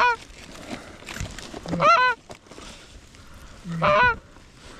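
Goose honking: three loud two-note honks about two seconds apart, each a short low note breaking into a higher, arching one.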